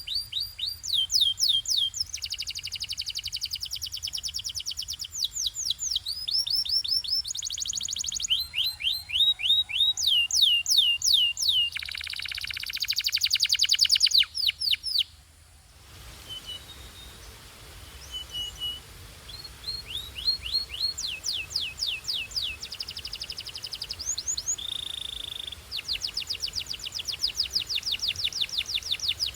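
Belgian canary singing in quick tours: rapid trills of repeated sweeping notes that change every second or two. A louder, harsher buzzing roll comes a little before halfway, followed by a short lull and then more trills.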